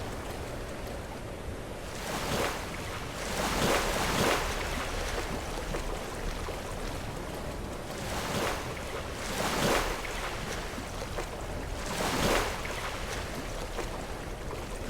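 Sea waves breaking against rocks: a steady wash of surf with about five louder splashes spread through it, and some wind on the microphone.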